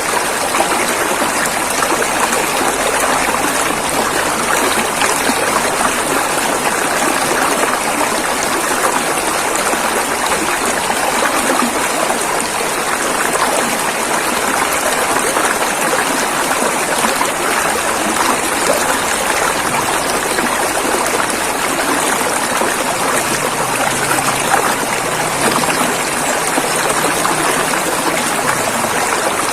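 River water flowing over rocks: a steady, dense rushing and gurgling that goes on without a break.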